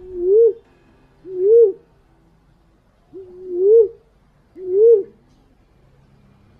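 Fruit-pigeon lure call: four short cooing notes, each low and level before rising and dropping at its end, repeated every second or so.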